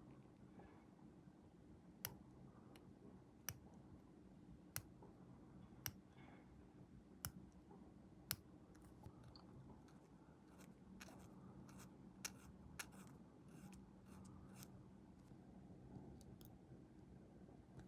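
Sprue nippers snipping plastic scale-model parts, with six sharp clicks about every second and a bit, then a quicker run of lighter clicks in the second half.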